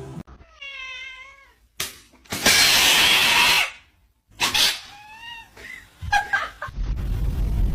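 A cat yowling: a drawn-out, wavering call, then a loud noisy hiss-like burst lasting about a second and a half, then a second, shorter meow. Near the end a steady low rumble comes in.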